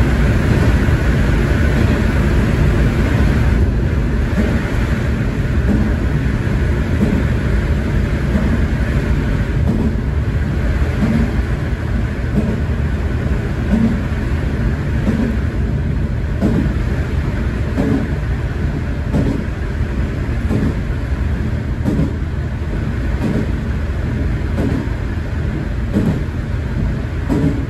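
Tosa Kuroshio Railway diesel railcar running along the line, heard from inside the car: a steady engine and wheel rumble with regular clicks of the wheels passing over the rail joints, roughly one a second, plainest from about ten seconds in.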